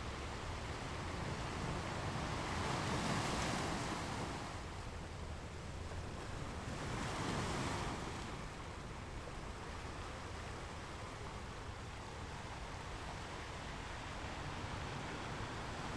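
Gentle ocean waves washing onto a shore, a steady hiss of surf with two waves swelling and breaking about 3 and 7 seconds in.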